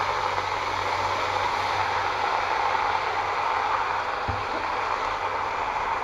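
Water spinach (morning glory) sizzling in hot oil and garlic in a wok, a steady loud hiss just after the greens go in. A light knock a little over four seconds in.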